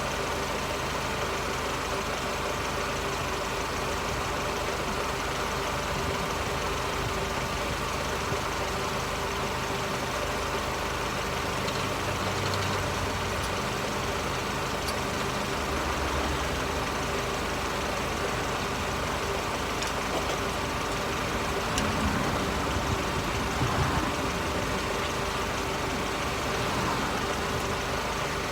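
Mercedes SLK R170 engine idling steadily, heard from under the car near its exhaust, which the owner finds a little raspy and suspects of a leak. A few light knocks come about two-thirds of the way through.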